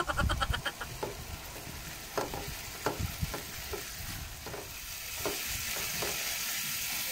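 Chopped chicken sizzling in hot oil in a nonstick pan, stirred and pushed about with a silicone spatula that gives short scraping strokes every second or so. The sizzle is steady and grows a little louder from about five seconds in.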